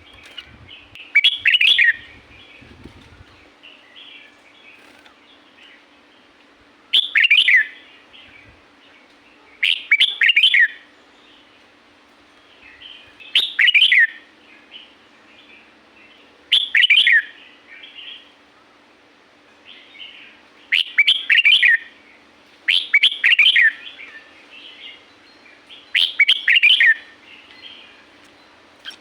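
Red-whiskered bulbul singing: a short, loud phrase of quick falling whistles repeated about every three seconds, eight times, with softer chirps between phrases. A faint steady hum runs underneath.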